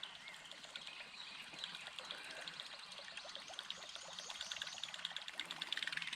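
Faint trickling and dribbling water with many small ticks, growing a little louder near the end.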